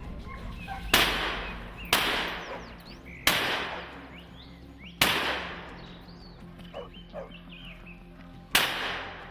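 Five hunting-rifle shots, irregularly spaced over several seconds, each trailing off in a long echo.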